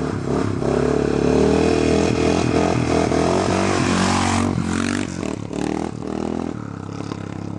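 Dirt bike engine running at high revs, its note easing back in the last few seconds.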